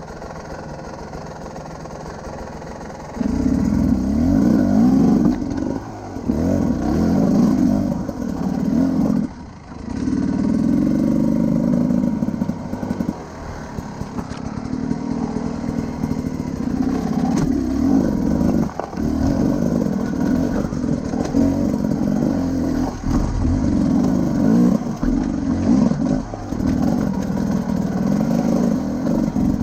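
Beta enduro motorcycle engine being ridden. It runs at low throttle for the first few seconds, then revs rise and fall again and again, with short dips between pulls.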